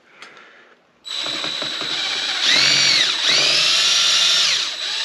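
Electric drill starting about a second in and running under load, drilling out a stripped screw in a motorcycle engine case. Its motor whine sags in pitch twice as the bit bites into the metal, then picks back up.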